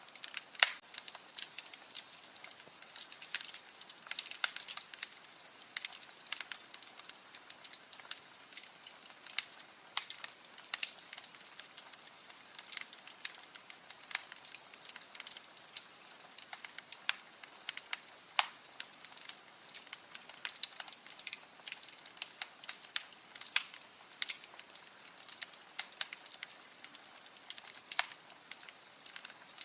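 Fire crackling in a fireplace: irregular sharp pops and snaps, some louder than others, over a soft steady hiss.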